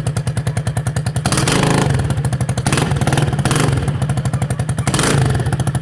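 Italika DM 200 motorcycle engine running with its exhaust removed, idling with an even, rapid pulse and blipped several times in short bursts of revs.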